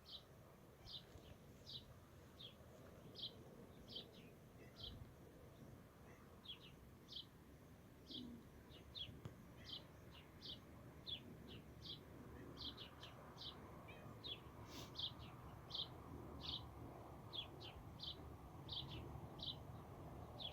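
A bird chirping over and over: short, high, slightly falling chirps about once or twice a second, faint over low steady background noise.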